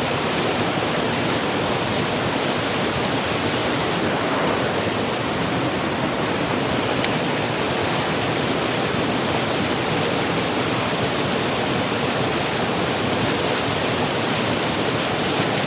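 Steady rush of a mountain creek's flowing water, with a single sharp click about seven seconds in.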